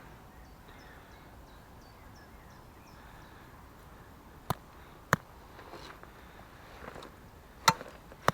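Faint outdoor background with a bird's short chirps repeating for the first few seconds, then four sharp clicks or knocks, the loudest about two-thirds of the way in.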